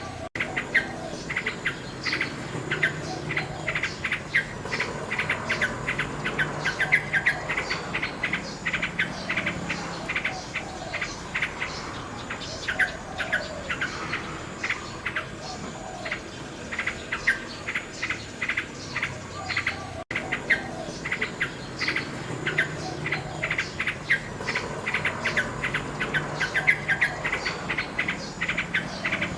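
Nightingale singing continuously: rapid runs of chirps, trills and whistled notes, with a brief dropout about twenty seconds in.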